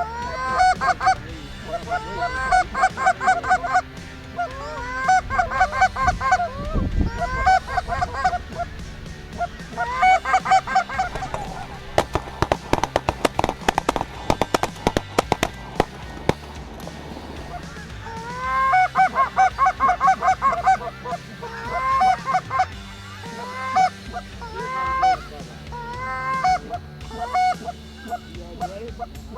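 Canada goose honks and clucks in quick strings of short rising notes, coming in clusters with brief gaps. A rapid run of sharp clicks or ticks comes about twelve to sixteen seconds in.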